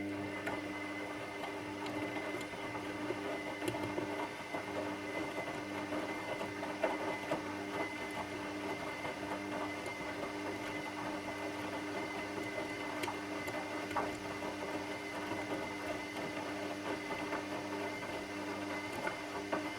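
Washing machine running: a steady motor hum with a high, even whine over it and scattered light clicks and rattles.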